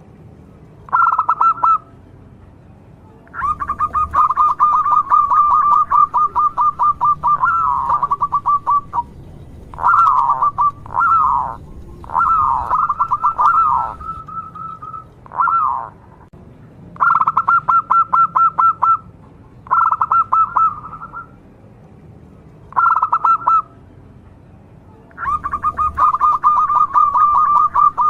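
Zebra doves (local perkutut) cooing: repeated bouts of rapid, rolling pulsed coos, each one to several seconds long, with short pauses between and some bouts overlapping.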